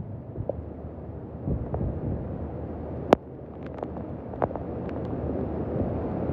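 Hurricane wind buffeting the microphone as a low, steady rumble that slowly builds toward the end, with a few short sharp clicks, the loudest about three seconds in.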